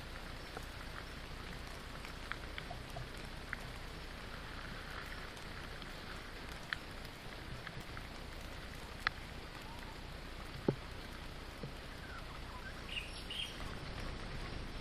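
Steady rainfall hissing, with a few louder single drops landing close by. Some short chirps come in near the end.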